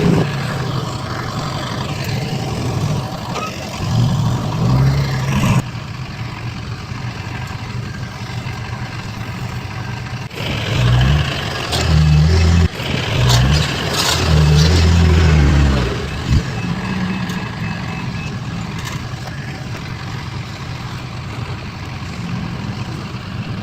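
Heavy diesel engines of construction machinery running and revving, the engine note rising and falling in uneven surges with abrupt changes. A faint, evenly spaced reversing beeper sounds about two-thirds of the way in.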